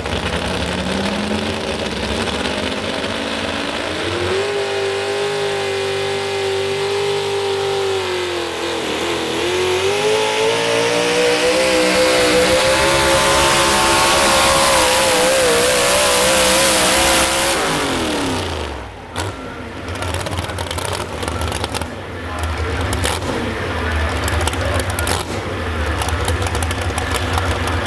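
Modified 4x4 pulling truck's engine at full throttle on a pull, its pitch climbing, dipping briefly about nine seconds in, then climbing again to its loudest. About eighteen seconds in the revs fall away sharply and the engine drops to a low idle.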